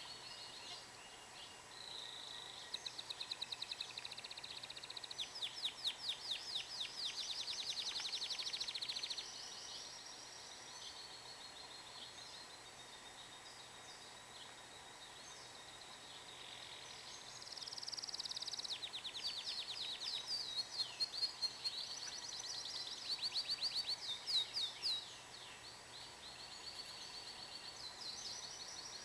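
Domestic canary singing: long phrases of rapid high trills and rolling repeated notes, with quieter twittering between two louder song bursts.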